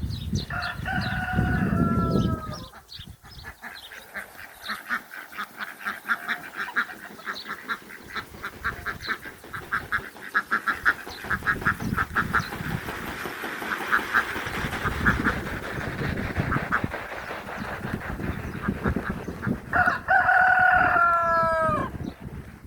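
A rooster crowing twice, once near the start and again about twenty seconds later, each crow about two seconds long with a falling end. Between the crows other birds give a long, fast run of short repeated calls, over a low rumble.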